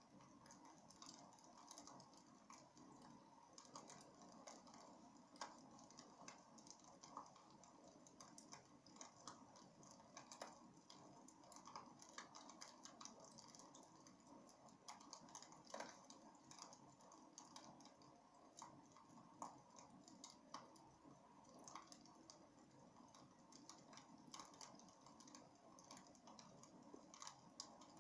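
Wood fire burning in a fireplace: irregular small crackles and pops over a soft, steady hiss.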